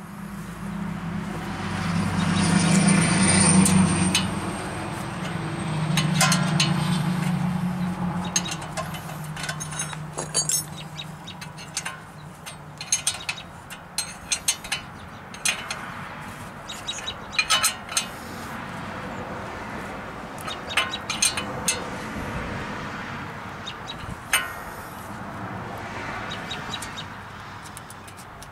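Sharp metallic clinks and taps of tools and parts, coming in quick scattered runs, over a low hum that swells in the first few seconds and fades by about eight seconds in.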